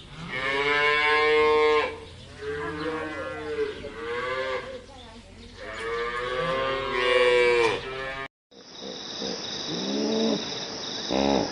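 Cow mooing: several long, drawn-out moos one after another. About eight seconds in the sound cuts to a different recording, with a steady high-pitched buzz and a few short, low calls.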